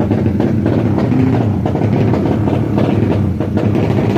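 Drag bike engines running, a loud, steady, dense rumble with rough irregular crackle on top.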